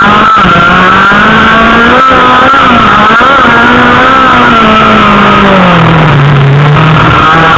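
Autocross car's engine running hard on a dirt track, very loud, heard from inside the car. The engine note wavers and rises a little, drops about five to six seconds in as it eases off, then climbs again near the end, with scattered short knocks.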